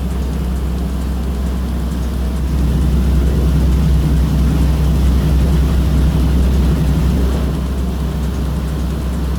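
A passenger catamaran ferry's engines running steadily, heard on board as a deep, continuous drone with rushing noise above it. It grows louder for several seconds in the middle.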